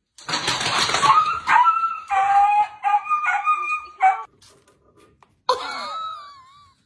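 A dog whining and yipping: a run of short, high-pitched cries with held notes for about four seconds, then one longer whine that wavers and falls in pitch near the end.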